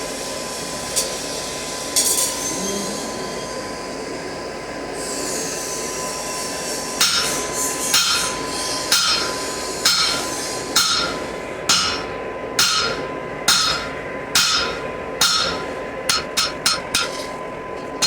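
Blacksmith's hammer striking metal on an anvil: a couple of single blows early, then steady ringing blows about once a second, then quicker, lighter taps near the end. A steady rushing of the gas forge runs underneath.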